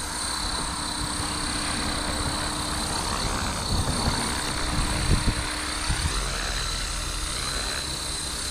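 Blade Fusion 360 electric RC helicopter in flight as it is brought lower: a steady high-pitched whine from the motor and spinning rotors, with gusts of wind rumbling on the microphone.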